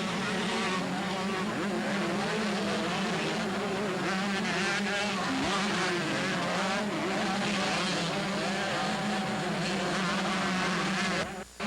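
Two-stroke motocross bikes racing, several engines revving up and falling back as riders shift and work the throttle. The sound cuts out briefly near the end.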